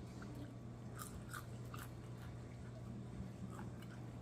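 Faint chewing of a crunchy hard corn taco shell with shrimp filling, with a few scattered crisp crunches.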